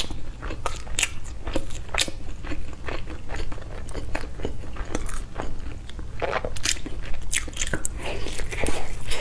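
Chewing and biting into a sticky rice zongzi in its bamboo-leaf wrapper: a rapid, irregular run of sharp mouth clicks and smacks.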